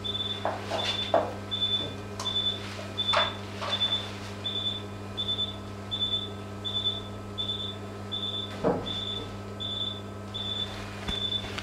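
Steady high electronic beeping, about one beep every 0.7 s, typical of an anaesthesia monitor's pulse tone, over a steady electrical hum from the operating-room equipment. A few light clicks of surgical instruments are heard now and then.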